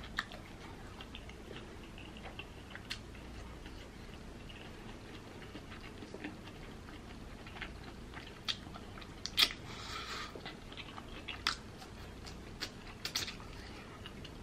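Mouth sounds of a person chewing seafood in a creamy Alfredo sauce: scattered soft smacks and clicks, with the loudest cluster about nine to ten seconds in and a few more near the end.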